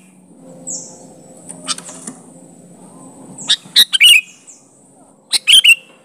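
Sooty-headed bulbul giving short, sharp, loud calls in separate bursts, about four times, the loudest a little past the middle and near the end.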